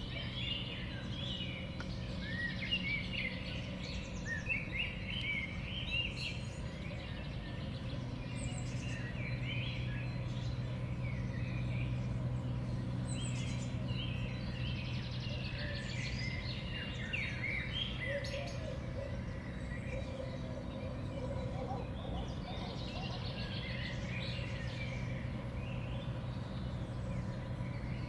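Small songbirds at a feeder chirping and calling in quick, overlapping bursts, busiest in the first few seconds, around the middle and near the end, over a steady low hum.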